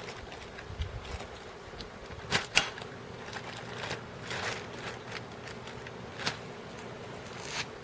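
Oil-change extraction on a scooter engine: scattered clicks and knocks with a few short hisses, the handling and suction of an oil extractor drawing out the oil.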